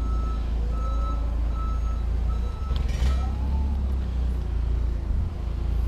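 Reversing alarm on a forklift beeping about twice a second over its steady engine rumble; the beeping stops about two seconds in, and a single clank follows about a second later.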